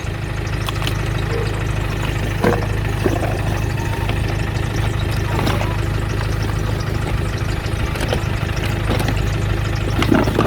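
Car engine idling steadily, with a few short knocks and clatters over it.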